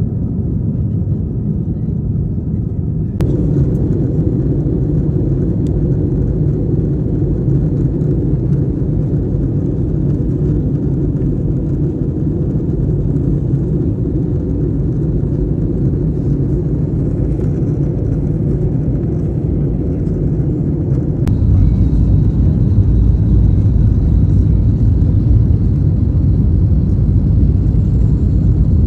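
Steady low rumble of a moving vehicle, heard as travel noise. It changes abruptly at about 3 seconds and again at about 21 seconds, where it becomes deeper and louder.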